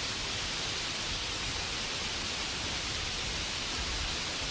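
Steady rainfall ambience: an even hiss of rain without breaks or single drops standing out.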